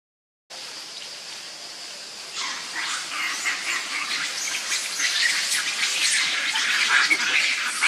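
Birds chirping rapidly and in a crowd, starting about two seconds in and growing louder, over a steady high hiss.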